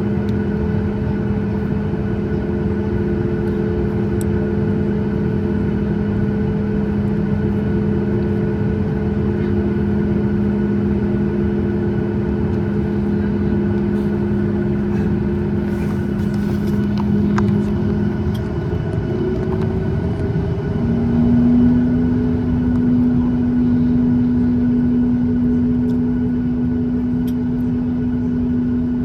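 Cabin noise aboard a Boeing 737 MAX 8 airliner: a steady rush of engine and air noise with a low droning hum. About two-thirds of the way through, the hum drops out briefly and comes back at a slightly higher pitch.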